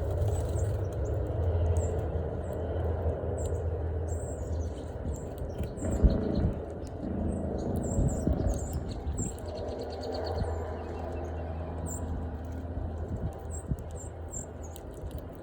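Small birds chirping, many short high chirps scattered throughout, over a steady low rumble, with a single knock about six seconds in.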